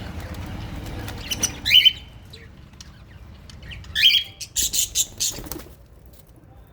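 Small pet parrots in an aviary giving two sharp, shrill calls about two seconds apart, the second followed by a short burst of wing flapping. A low rumble sits underneath for the first second or so.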